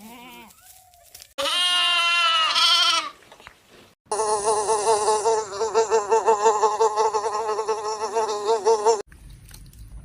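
A single loud, wavering bleat lasting under two seconds, then an insect's buzzing whine that runs steadily for about five seconds with a fast flutter and stops abruptly.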